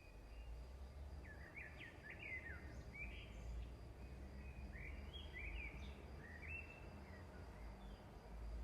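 Faint bird chirps in two short bouts of quick sweeping notes, over a steady low background rumble.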